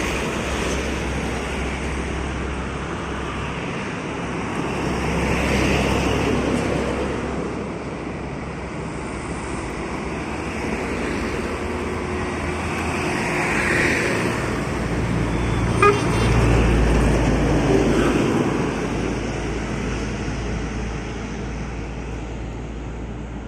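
Road traffic: engine and tyre noise swelling and fading as several vehicles pass, with a sharp click about two-thirds of the way in.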